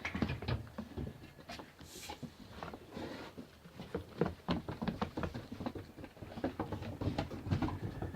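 Puppies moving about, giving many small, irregular clicks and scuffs.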